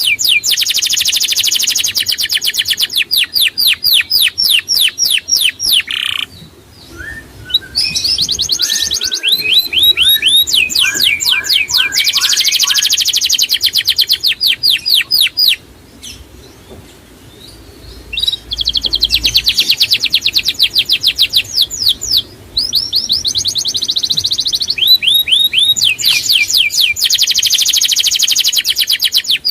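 Small songbird singing long, fast trills of many quickly repeated high, sweeping notes, in phrases several seconds long with short pauses between them.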